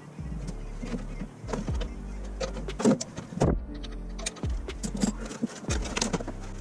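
A string of irregular clicks, knocks and clinks from hand work on a snowblower, over a steady low hum.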